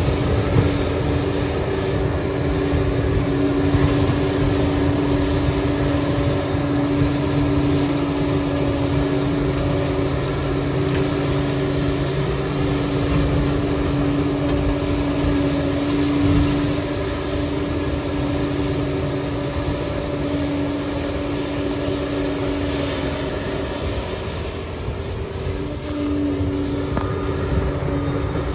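Liebherr 746 crawler dozer's diesel engine running steadily as a loud, continuous drone with a constant pitch.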